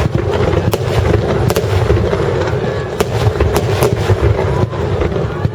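Aerial fireworks bursting in rapid succession: a continuous low rumble of overlapping explosions, with sharp cracks several times a second.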